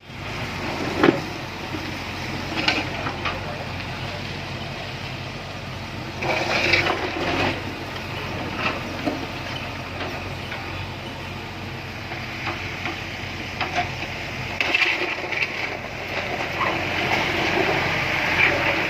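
Road-works street noise: a steady rumble of vehicles or machinery, with scattered knocks and scraping and a few louder passes.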